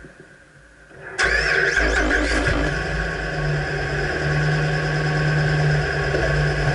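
2009 Dodge Ram pickup's engine starting about a second in, catching quickly, then idling steadily.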